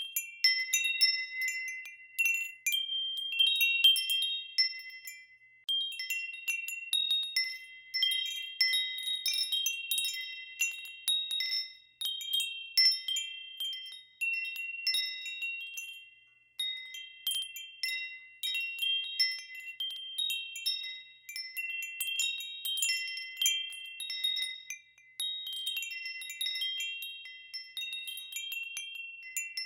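Wind chimes ringing, struck at irregular moments so that several high tones overlap and ring on as they fade.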